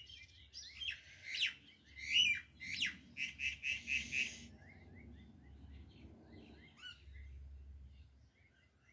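Small birds chirping: quick downward-sweeping chirps, busiest in the first half, with a run of five rapid even notes about three and a half seconds in, then sparser chirps toward the end.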